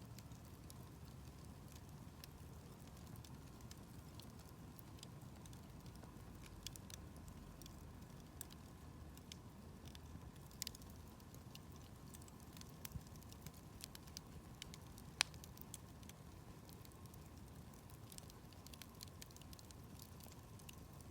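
Campfire of burning firewood crackling softly, with scattered small pops and one sharper pop about fifteen seconds in, over a low steady rumble.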